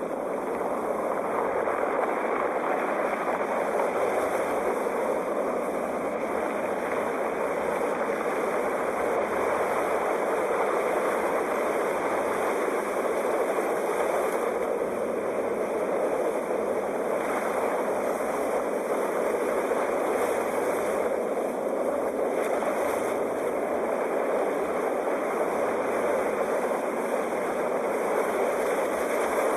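Steady roar of sea waves, an even wash of noise without distinct breaking surges.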